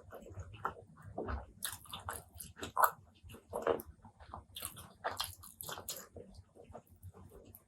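Close-miked chewing and biting of food, irregular wet smacks and crunches from a person's mouth.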